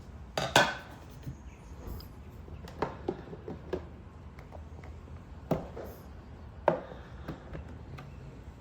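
Tableware knocking and clinking: dishes and utensils set down and handled at a meal. A close pair of knocks about half a second in is the loudest, then a run of lighter taps, then two more single knocks later on.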